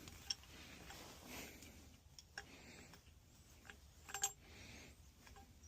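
Faint handling noises and light clicks of metal tools working on a gas pipe, with one short ringing metallic clink about four seconds in.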